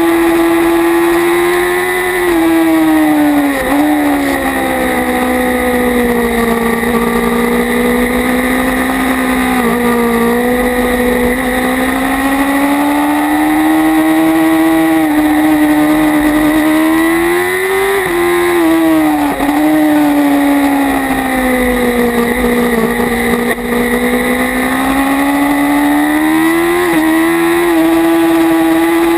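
Kawasaki Ninja ZX-6R's 600 cc inline-four engine running hard at racing speed, its pitch climbing and falling as it is ridden around the track, with short breaks in the note at gear changes, over steady wind noise.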